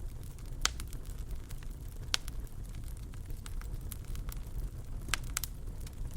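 Wood fire in a fireplace crackling over a steady low rumble, with a few sharp pops: one under a second in, one about two seconds in, and two close together about five seconds in.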